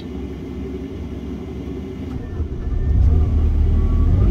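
An engine running with a low rumble that swells and grows louder about three seconds in.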